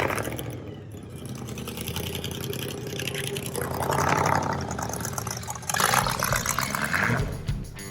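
Car engine idling steadily, with a couple of louder rushes of noise over it partway through.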